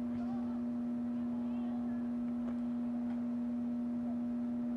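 A loud, steady hum on one unchanging low tone, with faint distant shouts of players or spectators at a youth soccer game.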